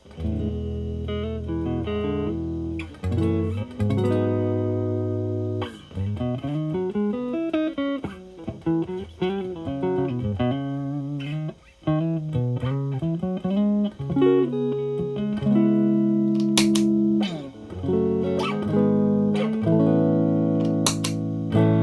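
Stratocaster electric guitar with alnico pickups played clean and dry through a Marshall Valvestate amp's clean channel: strummed chords and single-note lines. About seventeen seconds in, the Xotic AC Plus overdrive comes on with its gain at zero, and fuller sustained chords ring on.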